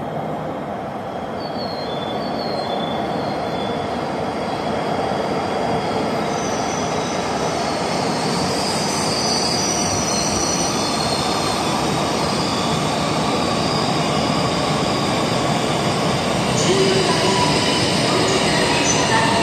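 H5 series shinkansen pulling into a platform and slowing: a rushing train noise that grows steadily louder as it comes alongside, with high whining tones that come and go.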